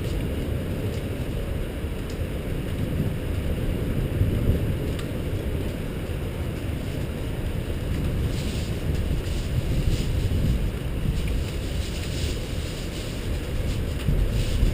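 Wind buffeting the microphone: a steady low rumbling noise, with a few faint crackles in the second half.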